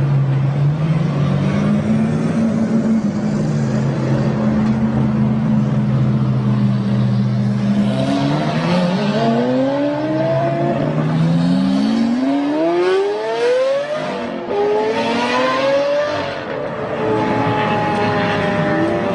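Car engine running at a steady pitch for about eight seconds, then accelerating hard: its pitch rises in several repeated climbs, each dropping back as it shifts up, with a falling pitch near the end.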